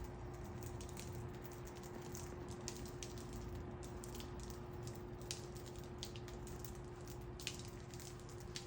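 Budgies pecking and nibbling at treats: scattered faint, irregular beak clicks over a steady low hum.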